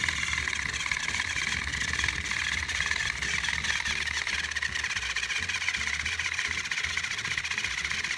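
Battery-powered Thomas & Friends TrackMaster toy train motors running, a steady whirring buzz with gritty gear noise.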